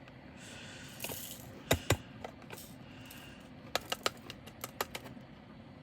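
Small plastic clicks and light rattling as resin diamond-painting drills and their plastic storage containers are handled: a soft rustle at first, two sharp clicks a little under two seconds in, then a run of small light ticks about four seconds in.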